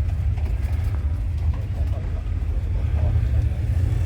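Steady low rumble of outdoor background noise, with faint voices in the background.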